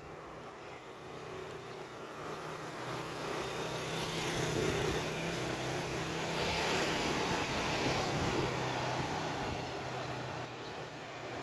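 Engine noise of a passing motor vehicle, a steady low hum that slowly swells louder to a peak mid-way and then eases off a little.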